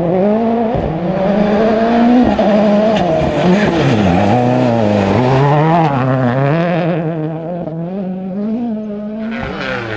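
Rally car engine revving hard, its pitch repeatedly climbing and then dropping sharply as the driver shifts gear and lifts off. It is loudest through the middle and eases a little in the last few seconds.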